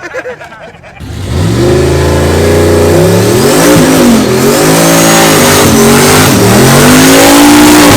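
A car or truck engine revved hard at close range, loud, its pitch climbing and dipping several times in a row.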